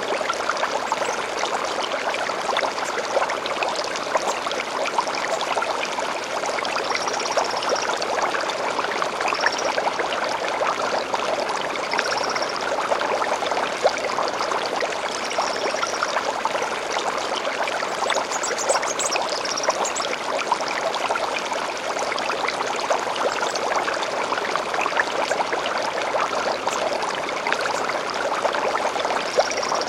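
Small stream flowing and babbling steadily, with short high bird calls every few seconds. A quick run of rising notes comes just past the middle.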